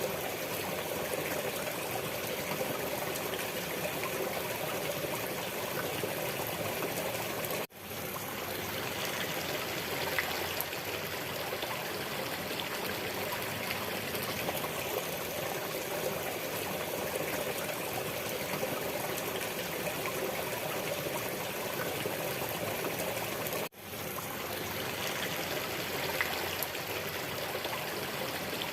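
Steady running water, like a small stream trickling, continuous and even. Twice it dips out for an instant, about 8 seconds in and near 24 seconds in.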